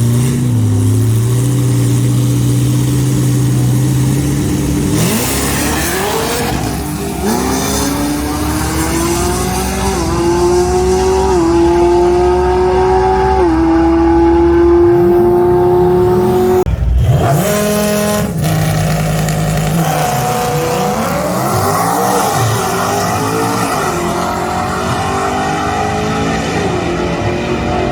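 Drag-race car engine holding steady revs on the line, then launching and climbing in pitch for about ten seconds, stepping through gear changes. After a break about 17 seconds in, engines rev up and down again, with the pitch rising and falling several times.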